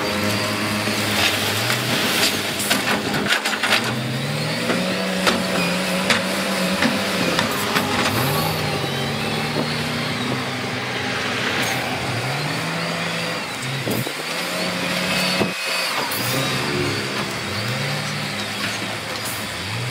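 Diesel engine of heavy earthmoving machinery, revving up again and again every second or two, with sharp knocks and clatter scattered through the first half.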